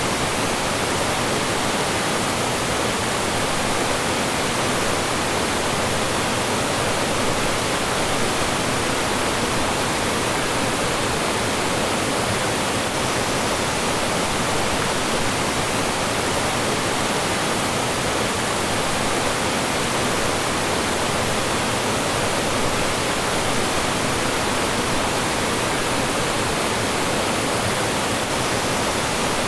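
Mountain stream rushing and splashing over rocks and small falls, a steady, even water noise with no breaks.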